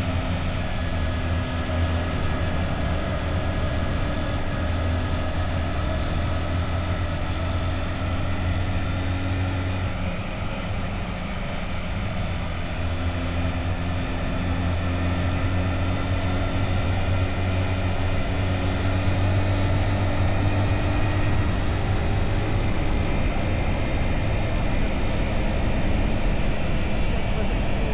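Motorbike engine running steadily while riding, a continuous low drone with even pitched overtones. It eases off slightly about ten seconds in, then picks back up and holds a little louder.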